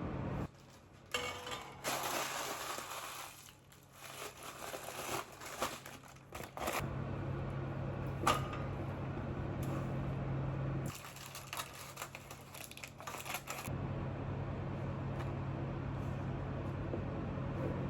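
Kitchen food-preparation sounds: a steady low appliance hum that cuts out abruptly and comes back twice, with rustling and scraping handling noises and a sharp clink about eight seconds in.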